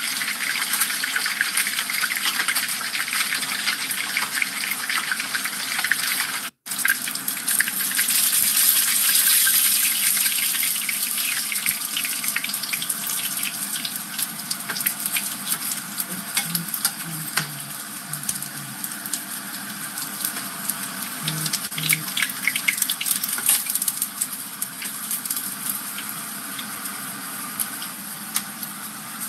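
Dorado fish deep-frying in hot oil in a pan: a dense, steady crackling sizzle. It drops out for an instant about six and a half seconds in and grows somewhat quieter toward the end.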